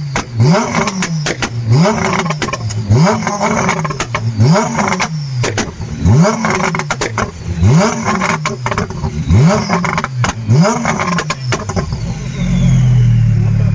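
A sports car engine blipped hard about nine times in a row, each rev rising quickly and falling back, with sharp exhaust pops and bangs between the revs. Near the end it settles into a steady, held engine note.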